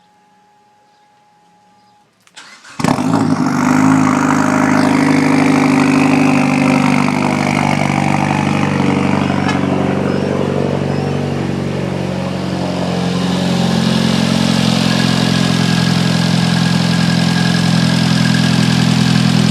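A turbocharged 2.4-litre four-cylinder engine in a Dodge Caliber SRT-4, built for racing and fitted with a straight exhaust, starting for the first time. About two and a half seconds in it cranks briefly and catches, then settles into a loud, steady idle that dips slightly just past halfway and picks back up.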